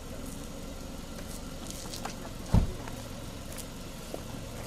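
Land Rover Defender's engine idling steadily, with a car door slammed shut in one loud thump a little past halfway through.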